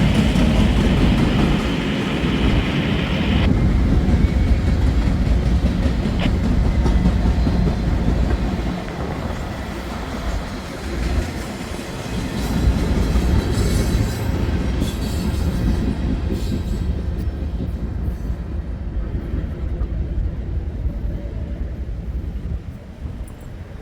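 Freight train rolling past: a steady rumble of railcar wheels on the rails with clickety-clack over the joints, a hissing upper band dropping out a few seconds in, and the sound easing off toward the end.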